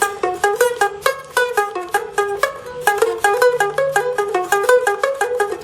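Homemade three-string box guitar tuned E-B-E playing a fast lead run in the G minor pentatonic: a quick stream of single plucked notes, about six a second.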